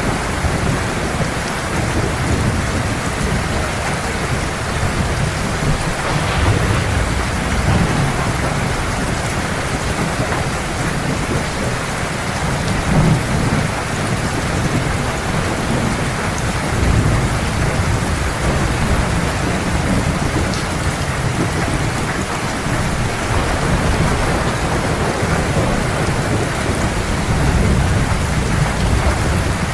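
Heavy rain pouring steadily, with low thunder rumbling and swelling several times underneath.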